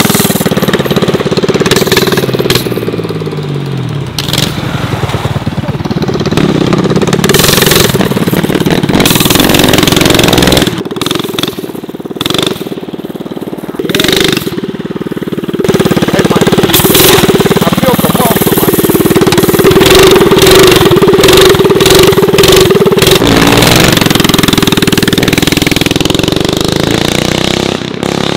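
Small single-cylinder minibike engine running and being revved as it is ridden, its pitch rising and falling; it eases off for a couple of seconds around the middle, then picks up again.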